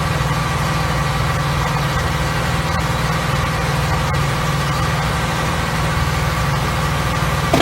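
Large wood chipper running steadily, its engine giving a constant low hum under an even rush of noise, with a few faint ticks.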